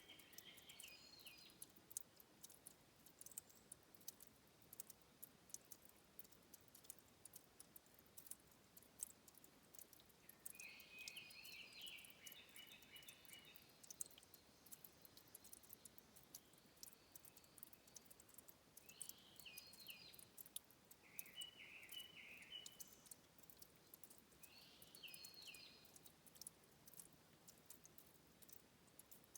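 Faint headwater ambience: a bird singing in short chirping phrases several times, over a steady scatter of small high clicks and ticks of dripping, trickling water.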